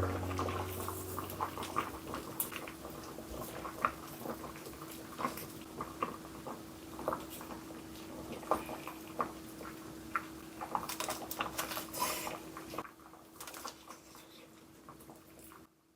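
Irregular small clicks, taps and rustles of objects being handled, over a steady faint hum; it grows quieter about 13 seconds in.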